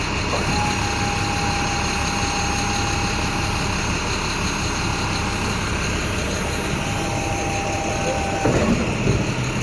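Penske box truck's engine idling steadily, with a thin steady whine over it for most of the time.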